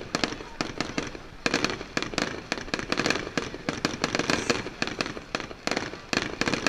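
Fireworks display: a dense, continuous run of sharp bangs and crackling, several reports a second with no let-up.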